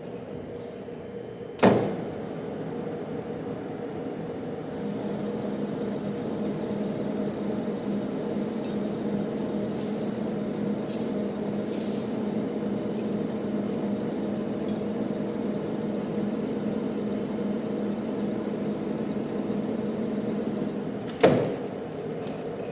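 Manual metal lathe running with a steady mechanical hum. A sharp clunk comes about two seconds in and another near the end, and a faint high hiss joins from about five seconds in.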